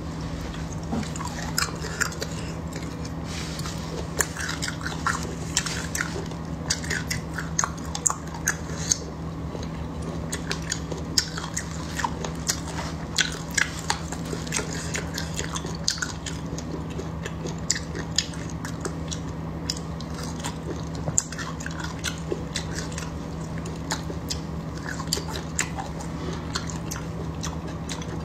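Close-miked chewing of soft food, with frequent short wet mouth clicks and smacks, over a steady low hum.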